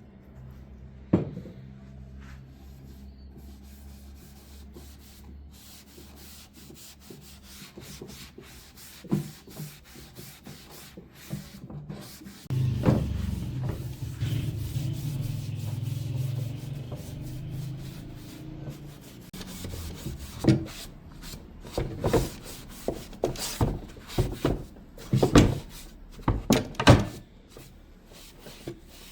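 Hand work on a wooden suitcase: rubbing on the wood with a few knocks, a steadier stretch of rubbing about halfway through, then a quick run of sharp knocks and clicks in the last third.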